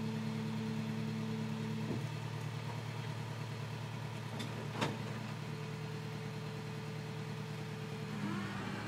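Flatbed tow truck's engine running steadily during winching. A sharp click comes about two seconds in and a louder metallic knock just before five seconds.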